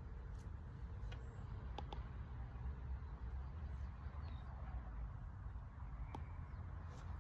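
Outdoor ambience: a steady low rumble with a few light clicks, about two seconds in and again near the end.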